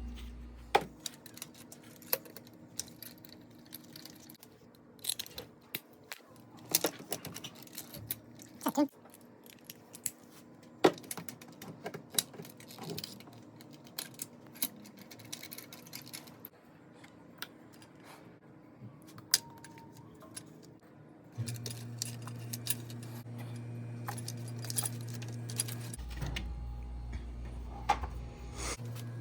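Irregular metallic clinks and clicks of hand tools and small metal engine parts being handled during engine reassembly, over a steady low hum that changes pitch a couple of times.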